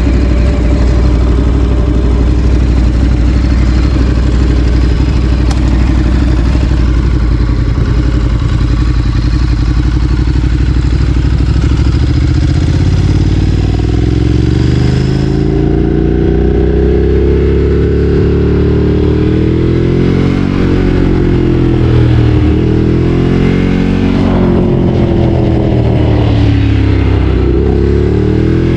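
Ducati Streetfighter 848's L-twin engine under way: a steady low drone for the first half, then from about halfway its pitch rises and falls repeatedly as the throttle is opened and closed.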